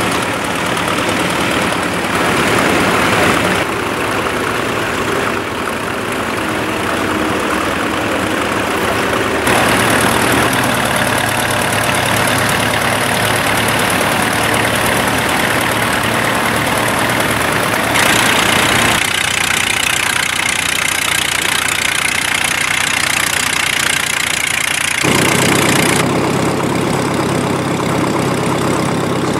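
Vintage tractor engines running at a ploughing match, the sound changing abruptly every few seconds as if from different tractors.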